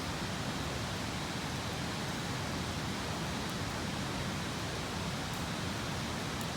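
Steady, even rushing noise with a few faint, sharp crackles from a wood campfire.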